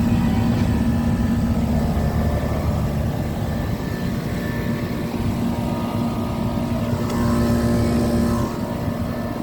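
Outdoor central air-conditioner condensing unit with a Bristol reciprocating compressor running: a steady compressor hum over the condenser fan's rumble. The hum weakens near the end.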